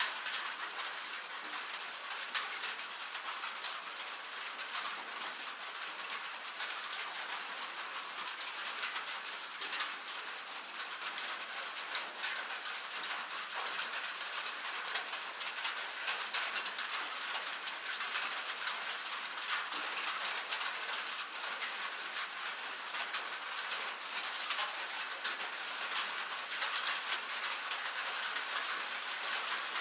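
Rain falling steadily on a metal roof: a dense hiss of drops with many sharp individual ticks.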